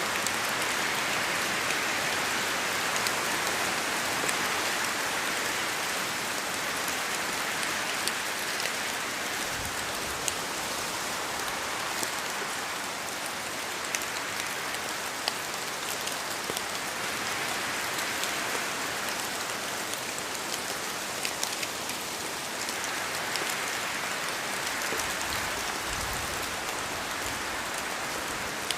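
Steady rain falling on a surface, an even patter with individual drops ticking through it.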